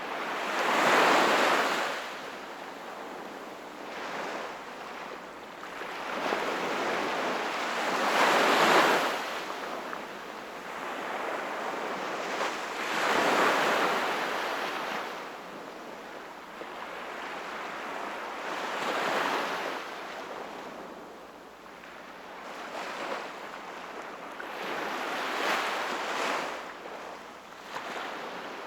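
Small sea waves breaking on the shore: a slow run of surges, each swelling and falling away over a few seconds, about five in all, with a soft wash between them.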